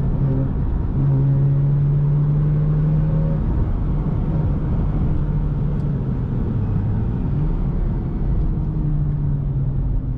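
Mazda RX-8's two-rotor Wankel engine running through a Re Amemiya aftermarket exhaust while driving. The engine note holds steady and strong from about a second in, eases off after a few seconds, then shifts a little in pitch.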